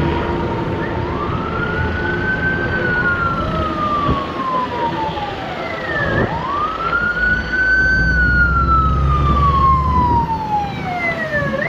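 Emergency vehicle siren on the wail setting: each cycle climbs quickly and then sinks slowly, about every five seconds. A low rumble swells in the middle and fades again.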